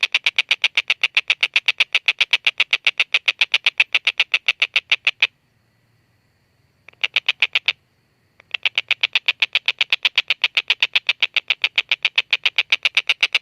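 Tengkek buto kingfisher calling a long, rapid series of harsh 'kek' notes, about seven a second. It breaks off about five seconds in, gives a short burst about a second and a half later, then starts the long series again.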